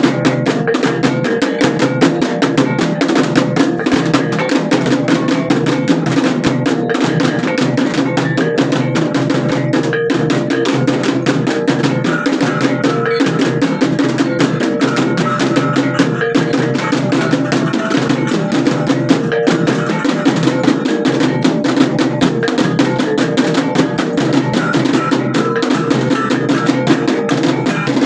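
Traditional percussion ensemble playing: fast, continuous drumming with held tones running under the beat.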